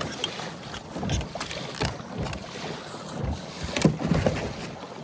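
Water splashing and lapping irregularly against the hull of a sit-on-top kayak under way, with wind buffeting the microphone. The strongest splashes come a little before four seconds in.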